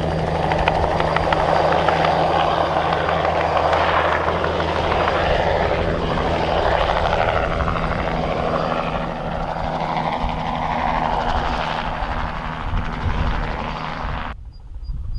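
Bell 206B-3 JetRanger III helicopter running in flight on a crop-spraying run: steady low rotor and engine tones under a dense turbine and rotor rush, swelling and easing a little. The sound cuts off abruptly about a second before the end.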